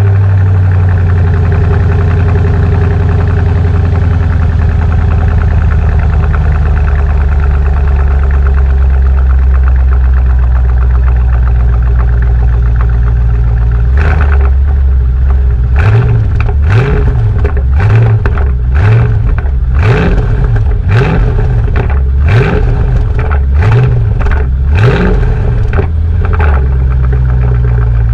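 Mercedes-Benz S55 AMG Kompressor's supercharged V8 idling loudly through its exhaust. About halfway through it is revved in a rapid series of short throttle blips, then settles back to idle near the end.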